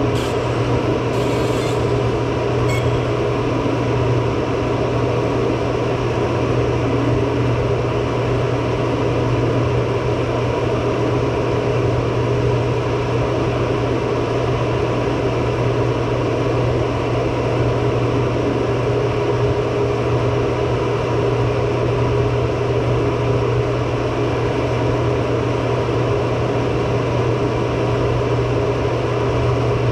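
Fume extractor's blower running steadily with a constant hum, drawing off the fumes from laser removal of an iPhone's back glass. A few faint clicks sound in the first few seconds.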